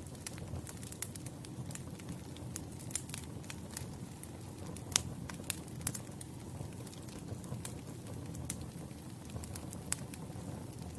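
Wood fire burning with a steady low rumble and scattered sharp crackles and pops of the logs, the loudest pop about halfway through.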